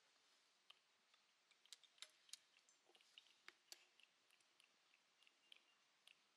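Faint, irregular crackling of small wood sticks burning in a stainless-steel rocket stove, a low fire giving scattered sharp snaps, a few louder ones in the middle.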